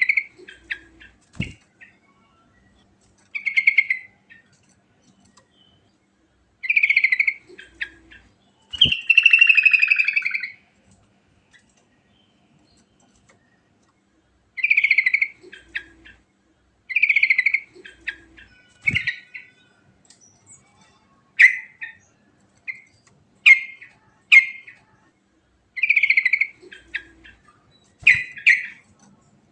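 Sooty-headed bulbul (trucukan) singing short, bubbly whistled phrases every two to three seconds, with one longer warbling run about nine seconds in. A few sharp knocks are heard among the phrases.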